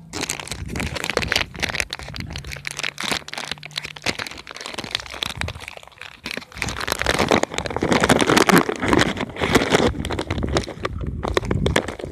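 Crinkling and crackling of a Doritos chip bag being handled, with some crunching. The rustling grows busier and louder about seven seconds in.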